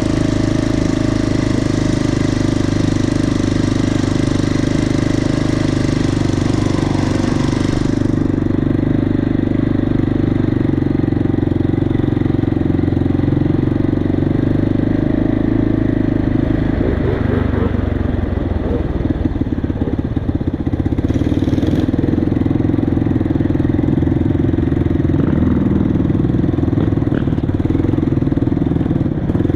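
Motorcycle engine running at a fairly steady speed, with a rougher, unsteady stretch a little past the middle.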